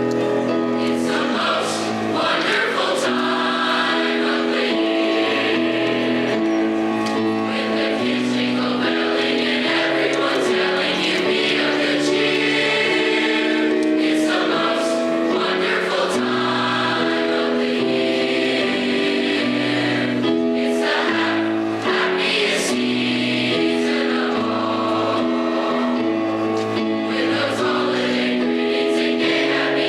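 A high school choir singing in harmony, holding chords that move every second or so.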